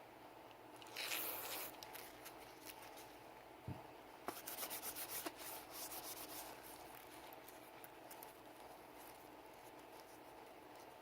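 Close, quiet rubbing and small clicks from cleaning a Sig Sauer P320 pistol. One brief rubbing stroke comes about a second in, then a few sharp clicks and a quick run of small scrapes and taps around four to six seconds, with faint ticks after.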